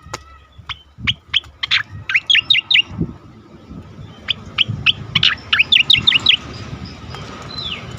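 Striated grassbird (cica koreng) singing an energetic song: a run of sharp chirps building into fast strings of quick, falling notes, twice, then a couple of slurred whistles near the end.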